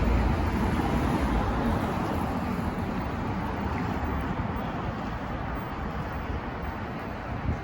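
Outdoor city traffic noise: a low rumble over a steady hiss, slowly fading away.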